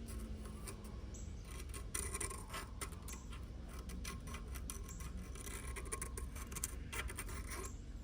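Scattered light clicks and faint scratching, like small hand work on metal parts, over a low steady hum.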